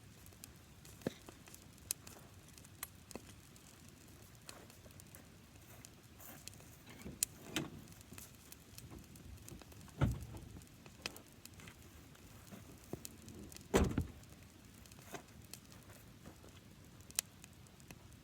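A small fire of dry grass crackling faintly, with scattered sharp pops and two louder dull thuds, about ten and fourteen seconds in.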